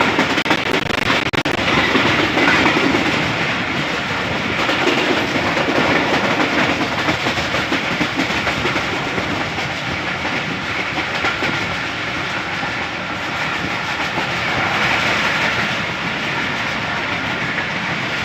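Passenger train running along the track, heard from on board: a steady rumble with wheels clattering over the rails, and a few sharp knocks in the first second or so.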